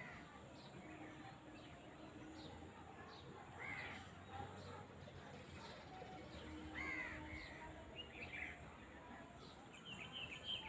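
Crows cawing a few times, harsh calls spaced a few seconds apart, with faint high chirps from smaller birds in between.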